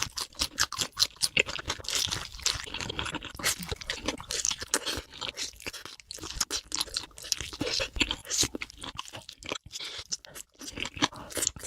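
Close-miked chewing of a hamburger: wet, crunchy bites and mouth sounds in a dense, irregular stream of sharp crackles.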